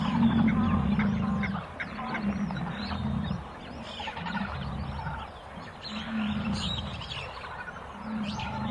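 A large animal giving a series of low, rough grunting calls, about five in a row, each lasting up to a second or so, with faint bird chirps behind.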